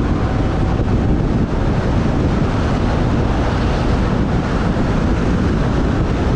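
Wind rushing over the microphone of a moving motorbike: a steady, loud, low rushing noise with no distinct engine note or other events standing out.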